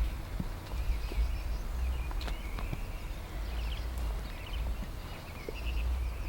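Small birds chirping, short high calls repeating throughout, over a steady low rumble with a few scattered soft clicks.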